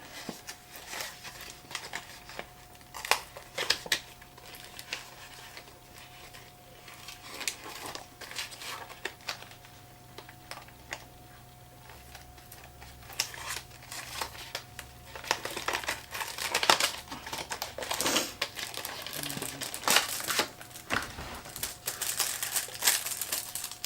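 Packaging crinkling, with scattered clicks and taps, as a boxed hard drive enclosure is unpacked and handled by hand. A faint steady hum runs underneath.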